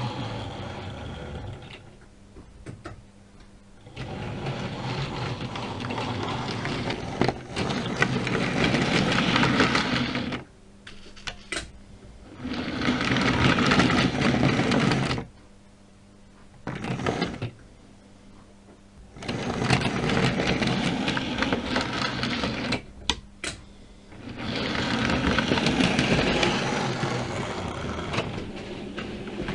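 Model railway train running along the track with its small electric motor whirring. It moves in about five stretches with short stops between, the stop-and-go of shunting. A faint steady hum can be heard during the stops.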